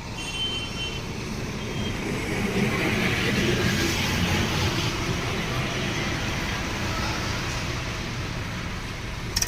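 Swaraj 744 FE tractor's three-cylinder diesel engine running, growing louder over the first few seconds and then holding steady. A brief sharp high-pitched sound comes near the end.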